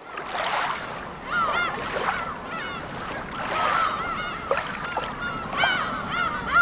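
Birds calling over and over, short arched cries about one to two a second, above the steady wash of surf breaking on rocks.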